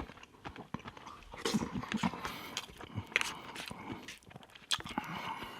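Close-miked chewing of garlic butter shrimp and rice: irregular wet mouth sounds with small clicks.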